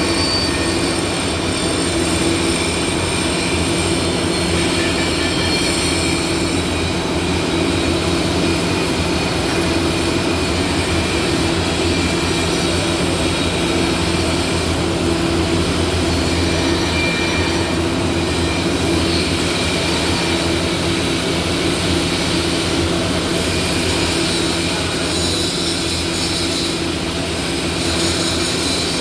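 Steady, loud welding-workshop machinery noise: a constant hiss and din over a low, even hum, with no breaks.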